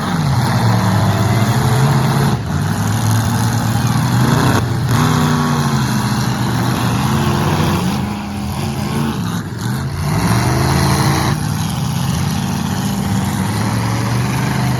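Demolition derby cars' engines revving hard, the pitch rising and falling again and again, with brief cut-outs when the throttle lets off.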